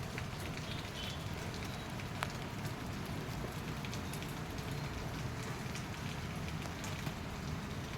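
Monsoon rain falling steadily, with scattered sharp drips and splashes standing out from the constant rush, one louder drip about two seconds in.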